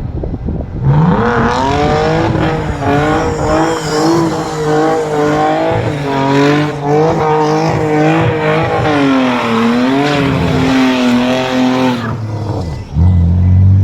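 BMW E46 328i straight-six engine revving hard and held high, its pitch wavering with the throttle, as the rear tyres spin and squeal through donuts on the welded differential. Near the end the high revs drop away and a lower engine note takes over.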